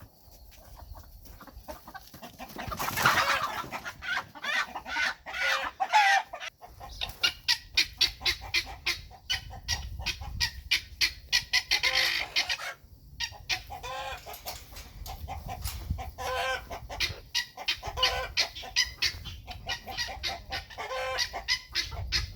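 Chickens clucking and calling in quick, short bursts, with one louder call about three seconds in.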